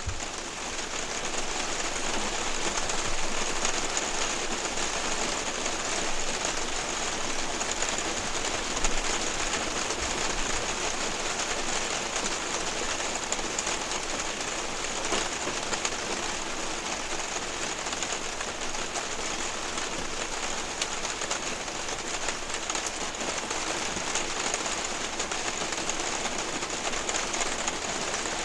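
Rain falling on a camper van's roof and windows, heard from inside: a steady, dense hiss of countless small drop hits.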